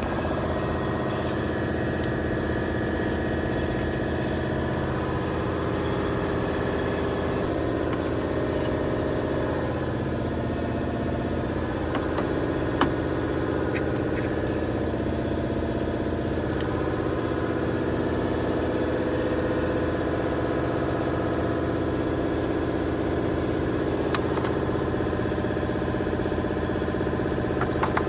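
BMW car engine idling steadily, with a single light click about thirteen seconds in.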